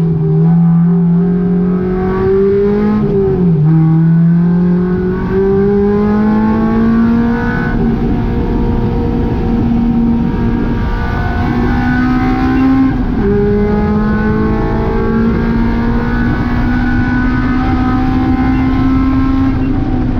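Honda K20 four-cylinder engine in a track-driven Volkswagen GTI, at high revs under full throttle. Its pitch climbs steadily, drops sharply at an upshift about three seconds in and again about thirteen seconds in, then climbs again.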